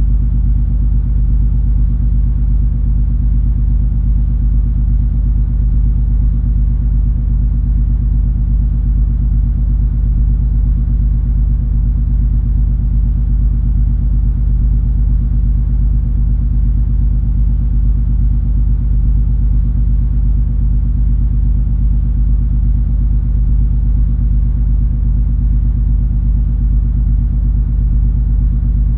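Steady low rumble of the cruise ferry MS Color Magic under way: its engines' drone, with several constant low hum tones and no change in level.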